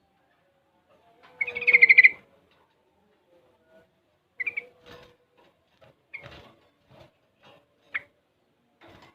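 Young yellow-vented bulbul (trucukan) singing: one loud warbled phrase about a second in, then a few short separate chirps and faint scratchy notes.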